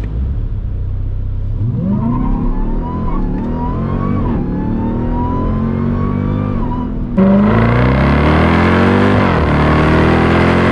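Dodge Durango SRT's V8 launched hard from launch control and accelerating at full throttle, heard from inside the cabin: the revs climb and drop sharply with quick upshifts, and a thin whine rises alongside. About seven seconds in it switches abruptly to a louder outside recording of the exhaust, still pulling up through a gear change.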